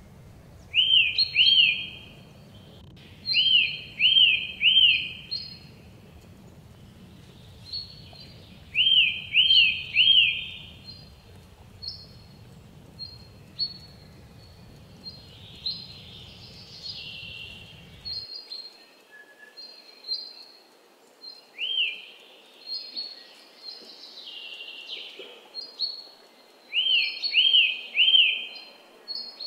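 Wild birds calling: a phrase of three quick rising-and-falling whistled notes repeats every few seconds, with many shorter high chirps between.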